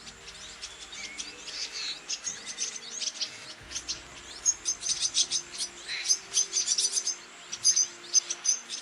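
Red-billed firefinch twittering: a busy run of short, high chirps in quick succession, thickest in the second half.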